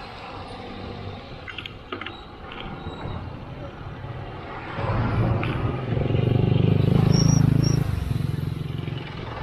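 A passing motor vehicle's engine hum rising about five seconds in, loudest around seven seconds, then fading, over steady wind and road noise on the riding cyclist's microphone.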